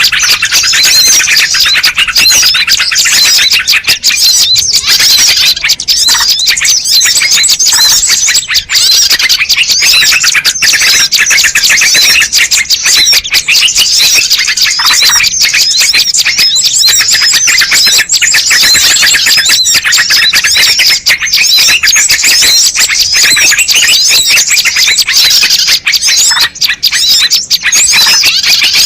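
Dense, unbroken twittering of many small birds chirping rapidly and loudly over one another, a bird-lure (pikat) recording played to draw in wild birds.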